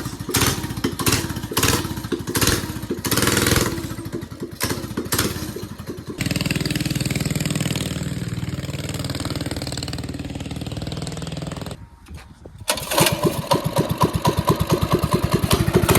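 Coleman mini bike's small single-cylinder engine running just after being pull-started into life. It fires unevenly with blips of throttle at first, then settles into a steadier run with a fast, even beat. The sound drops briefly about twelve seconds in.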